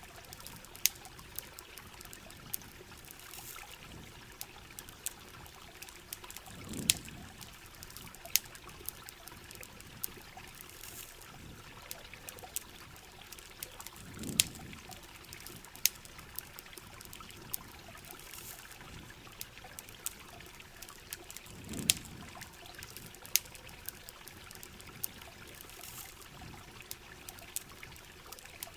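Steady rain and trickling water with a campfire crackling, sharp pops scattered throughout. A soft low swell returns about every seven and a half seconds.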